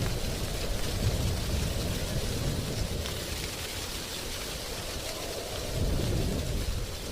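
Wind blowing through dry tree leaves, a steady rustling hiss with deep gusty rumbles that swell about a second in and again near the end.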